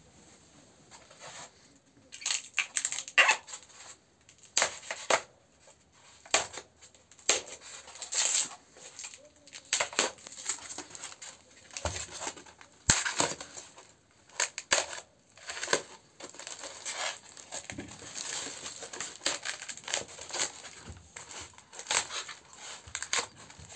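Stove packaging being opened and pulled apart by hand: irregular crinkling, tearing and rustling, with scattered sharp knocks.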